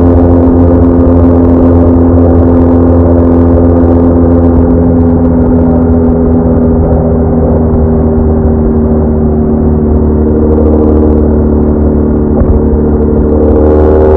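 BMW R1200R boxer-twin engine running at a steady cruise, its note easing slightly downward through the middle and picking up again near the end as the bike accelerates.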